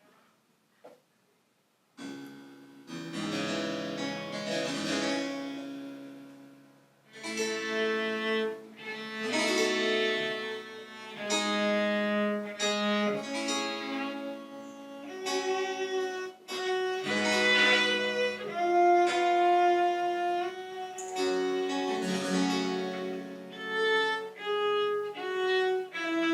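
A chamber ensemble starts playing French Baroque music about two seconds in: a bowed-string melody led by violin over lower sustained string notes, in phrases of long held notes.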